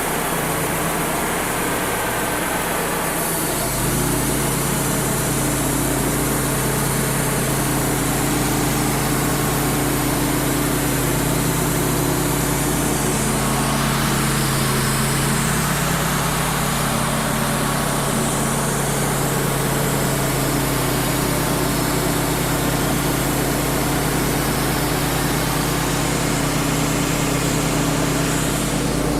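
Wood-Mizer LT35 HD portable sawmill's engine running steadily, its drone stepping up in pitch about four seconds in and then holding.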